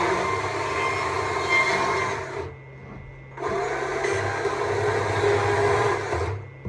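Stihl MSA 200 C battery chainsaw cutting wood in two runs of about two and a half to three seconds each. The motor stops for about a second between them and stops again near the end.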